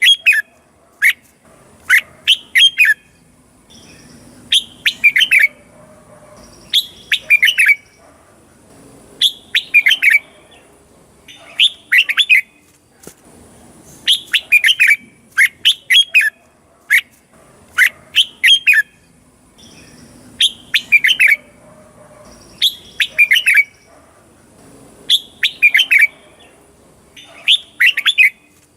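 Red-whiskered bulbul singing: short, bright phrases of a few quick notes, repeated about every two seconds.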